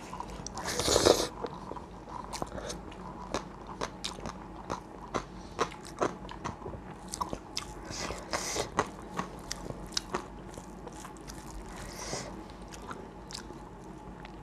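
Close-up eating sounds: chewing and crunching food, with frequent small clicks and mouth smacks and a loud crunch about a second in.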